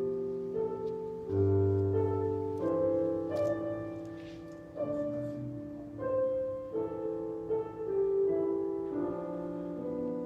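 Slow instrumental music on a keyboard: sustained chords under a simple melody, the notes changing every second or so.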